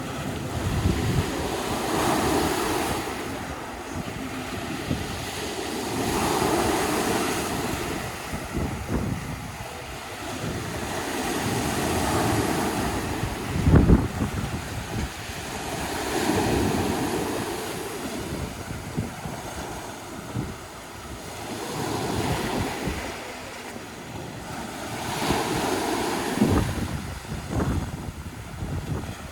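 Sea waves washing onto the shore, swelling and receding about every four to five seconds. Wind buffets the microphone with short low thumps, the strongest about halfway through.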